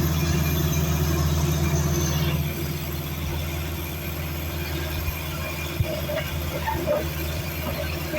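Diesel engine of heavy earthmoving machinery running steadily, with a hiss on top that fades out about two seconds in. A few short squeaks come in the last couple of seconds.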